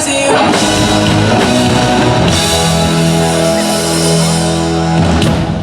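Live band with electric guitar and drums playing through a stage PA, ending on a long held chord that stops near the end.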